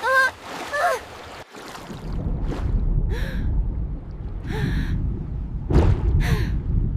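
Two short, high gasping cries from an animated character, then a low rumble with several whooshing swells.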